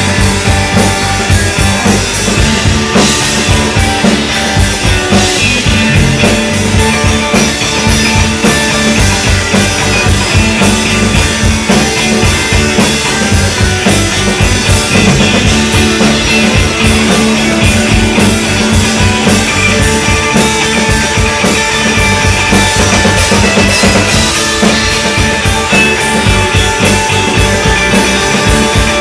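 Live rock band playing an instrumental stretch with no singing: electric guitar over a steady, driving drum-kit beat, loud throughout.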